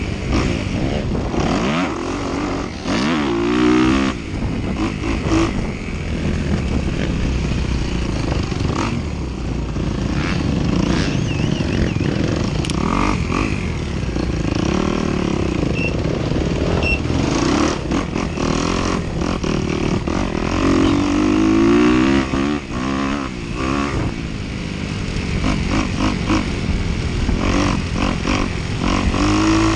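Dirt bike engine revving up and down repeatedly as the rider works the throttle through a cross-country course, with frequent knocks and rattles from the bike over rough ground.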